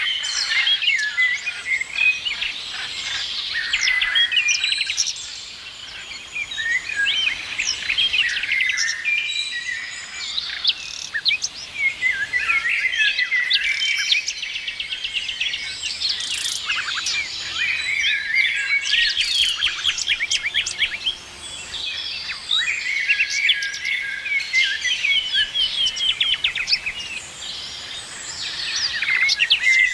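A chorus of several songbirds singing together, with overlapping quick chirps, rapid trills and short whistled glides, and a faint steady hiss beneath.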